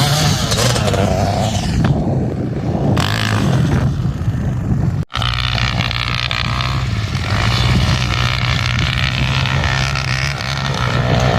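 Dirt bike engine running steadily, with a sudden brief cut-out about five seconds in.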